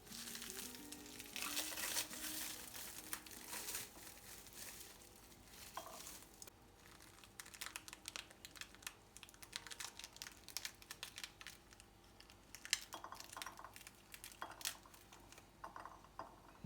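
Soft crinkling and rustling with many small scattered clicks and taps, as of hands handling things.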